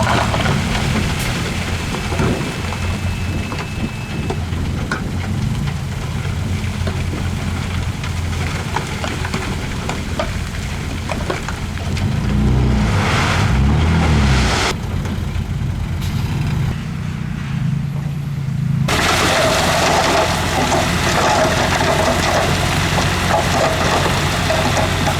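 Heavy diesel earthmoving machinery, a crawler bulldozer and dump trucks, running under load with a steady low engine drone and rumble. About halfway through the engine note rises and falls twice, and the sound changes abruptly a few times, with a rougher, noisier rumble near the end.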